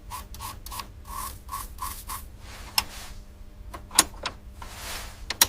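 A run of short, even mechanical taps, about three a second, then a few sharp single snaps like a staple gun being fired, the loudest one about four seconds in and a quick double snap near the end.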